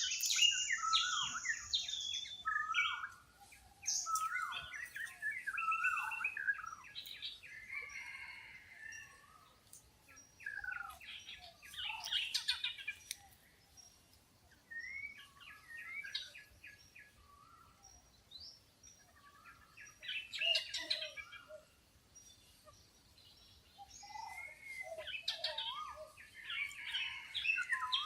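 Several wild birds chirping and calling, many quick whistled and chattering notes, busiest in the first few seconds and then in bursts every few seconds with quieter gaps between.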